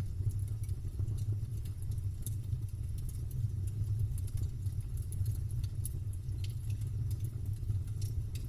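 Campfire crackling, with scattered small snaps and pops over a steady low rumble.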